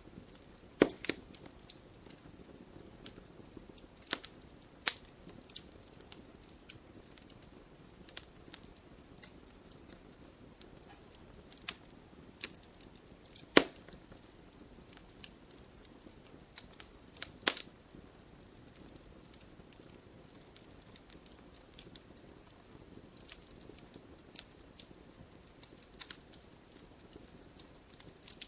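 Wood fire in a fireplace crackling: irregular sharp pops and snaps over a soft, steady hiss of burning, with a few louder pops now and then.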